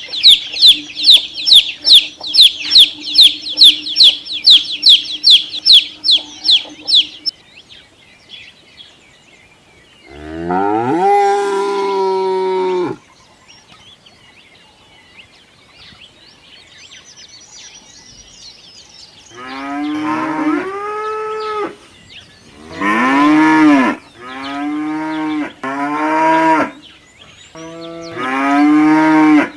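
A fast run of high, even chirps, about three a second, that stops about seven seconds in. Then come five long, drawn-out calls from a farm animal, each one to three seconds long.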